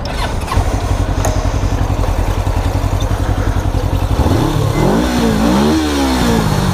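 Motorcycle engine idling with a steady low pulse; from about four seconds in, engine pitch rises and falls several times, as when revving or pulling slowly away.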